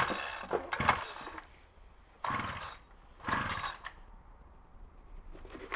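Recoil pull-cord starter of a small engine yanked about four times in quick succession, the cord whirring out and the engine turning over without catching: a hard extreme-cold start.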